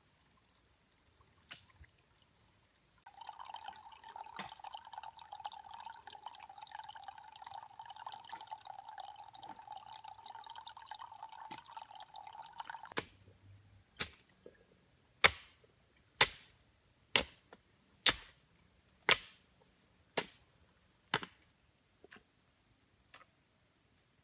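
A steady rushing sound for about ten seconds that stops abruptly, then about eight sharp knocks roughly a second apart.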